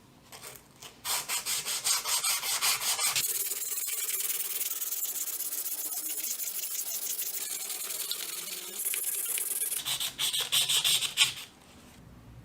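Abrasive scraping on the metal of old pliers being cleaned of rust: rapid back-and-forth strokes, then a steadier stretch of rubbing, then more quick strokes before it stops near the end.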